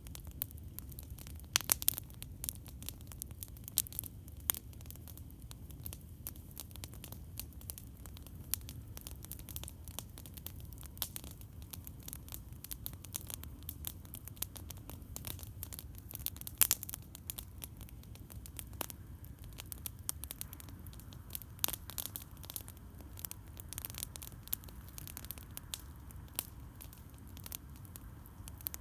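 Campfire burning and crackling, with irregular sharp pops and snaps, the loudest about two seconds in and just past halfway. A steady low rumble runs underneath.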